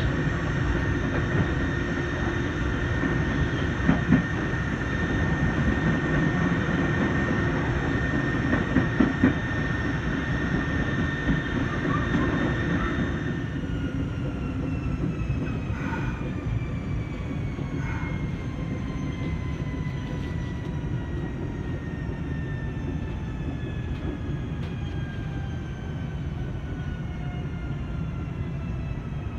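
Electric commuter train heard from inside the car: it runs steadily with a constant motor whine, then about halfway through the whine breaks into several tones that fall slowly in pitch as the train slows down. The train is braking for a precautionary stop before a level crossing while the signal fault is checked.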